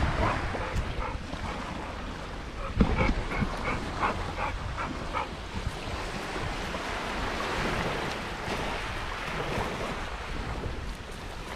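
Steady rush of river water and wind buffeting the microphone from a kayak on the move, with a quick run of short repeated sounds, about three a second, starting about three seconds in.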